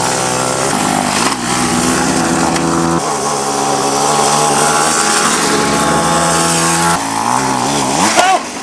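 Mini bike's small engine running hard at a high, steady pitch that steps up and down a few times as the throttle changes.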